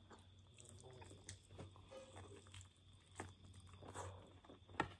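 Faint chewing and biting of cooked chicken held by hand, with soft wet mouth smacks and clicks scattered through and a sharper click just before the end.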